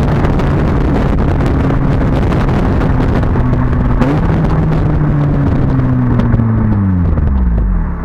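Honda Civic Type R FN2's four-cylinder engine running through a Magnaflow exhaust, holding a steady note. Over the last two seconds the pitch falls steeply as the revs drop.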